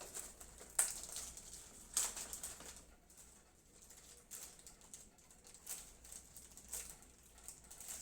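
Faint, scattered clicks and rustles of hands handling PC-case accessories and the manual, a few soft ticks spread over several seconds.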